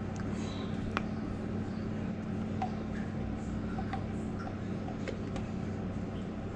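A steady low hum with a few faint light clicks and ticks scattered through it.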